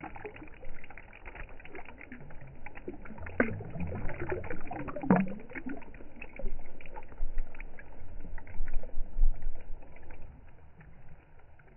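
River waves running in and lapping at the water's edge, in irregular slaps and splashes, with two stronger splashes about three and a half and five seconds in.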